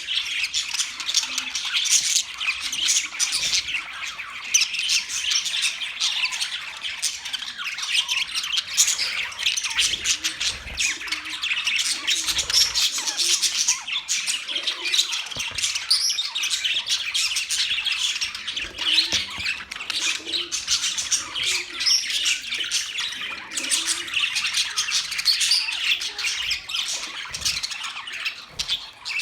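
Budgies (budgerigars) chirping and chattering together continuously, with many overlapping sharp calls and squawks.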